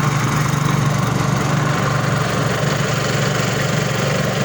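Rabeta long-tail boat motor running steadily at an even speed, pushing the canoe upriver.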